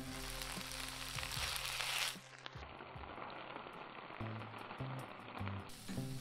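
Corn, paneer and vegetables sizzling in a frying pan, loud for the first two seconds and then dropping off suddenly to a quieter sizzle, over background music.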